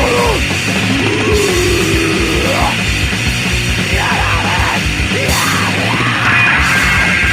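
Swedish crust punk band playing a demo recording: heavily distorted guitars, bass and pounding drums in a dense, continuous wall of sound, with wavering pitched lines over the top.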